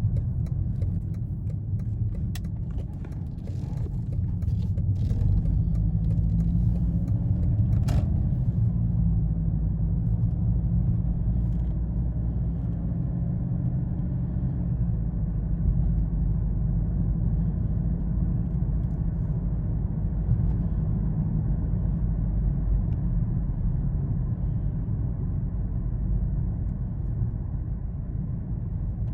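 Car on the move: a steady low engine and road rumble, with the engine note rising briefly about six to eight seconds in.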